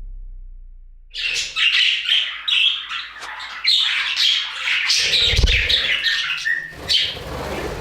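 Budgerigars chattering and squawking in a quick run of short chirps, starting about a second in, with a low thud about five seconds in.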